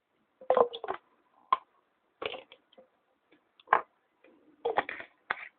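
Irregular clicks and clacks of small hard objects, such as resin moulds and casting tools, being handled and set down on a workbench, the loudest about half a second in.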